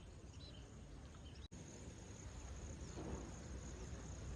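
Outdoor ambience dominated by a steady high-pitched insect drone, with a low rumble beneath and a few faint short chirps in the first second or so. The sound drops out for an instant about a second and a half in.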